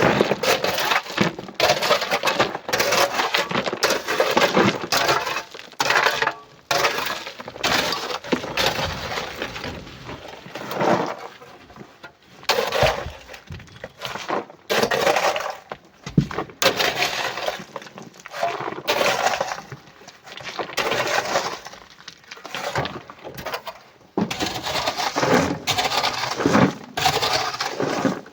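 Loose rock and coral pieces tumbling and clattering again and again, in rough bursts a second or two long with short pauses between.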